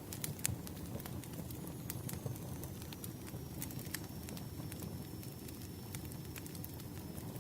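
Campfire crackling: a steady low rumble of burning wood with sharp pops and snaps at irregular moments.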